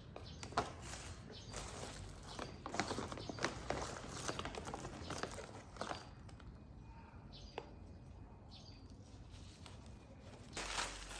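Irregular rustling and light clicks and knocks of packaging and items being handled while boxes are unpacked.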